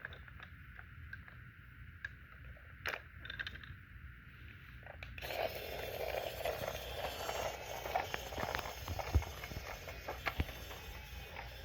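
Light clicks and knocks of wooden toy-train pieces as presents are loaded onto the train with a toy crane. About five seconds in, a louder, steady scraping and rattling noise with clicks sets in.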